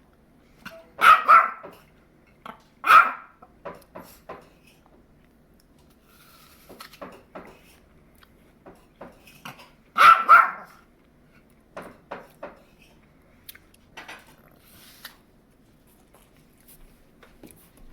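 Puppy barking in short sharp barks: a pair about a second in, one near three seconds, and another pair around ten seconds, with quieter clicks and knocks between. Demand barking at its owner for food, which the owner later calls nonstop barking at her while she eats an apple.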